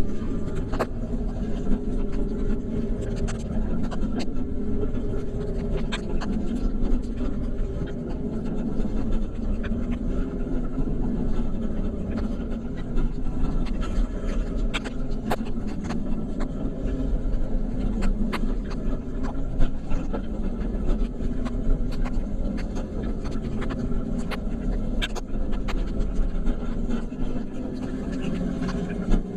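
Steady low rumble of a vehicle driving on a wet road, with scattered sharp ticks throughout.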